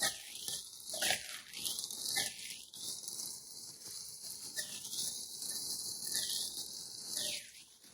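Packaging rustling and crinkling in irregular crackles as it is handled and pulled open.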